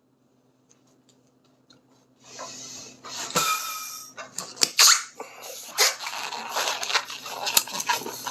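Latex modelling balloon squeaking and rubbing as it is handled and twisted, beginning about two seconds in after a quiet start, with a short high squeal part way through.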